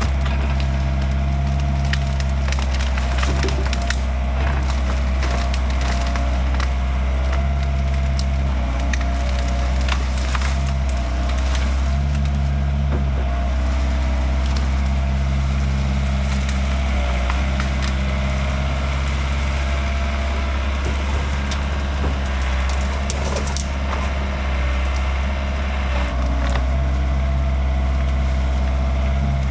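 Yanmar B50 excavator's diesel engine running steadily, with repeated cracking and splintering of hickory wood as the machine breaks up and handles the fallen tree.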